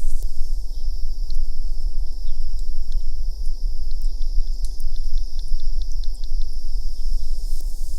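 Outdoor ambience: a steady high insect drone, with a quick run of small ticks about halfway through, over a constant low rumble.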